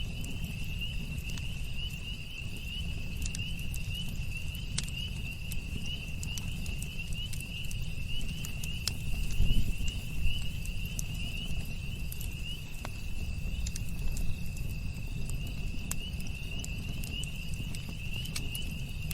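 Campfire crackling, with scattered sharp pops and a low rumble that swells about halfway through. Behind it runs a steady, high, fast insect trill.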